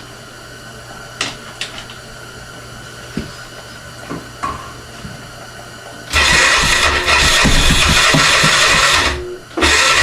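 Electric starter cranking the freshly rebuilt 1996 Honda Fourtrax 300 single-cylinder engine without it catching. The first crank starts about six seconds in after a few light clicks, and a second starts after a brief break near the end. With raw gas poured into the intake and no carburetor on, the engine is flooded.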